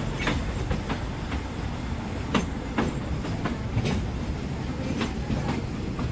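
Narrow-gauge passenger train running along the track: a steady low rumble with sharp, unevenly spaced clacks of the wheels over the rails.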